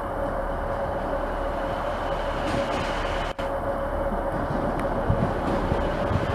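Train running: a steady noise with a held mid-pitched tone, with a brief break about three seconds in.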